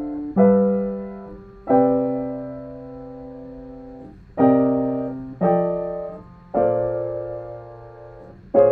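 Piano playing a series of jazz chord voicings, minor 9, dominant 13 and major 9 moving through 2-5-1 progressions. About six chords are struck one at a time, each held and left to ring down before the next.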